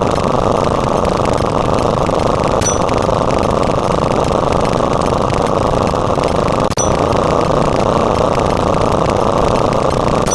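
A loud, steady rumbling noise with a short high ding about every four seconds, twice, the second with a brief dropout.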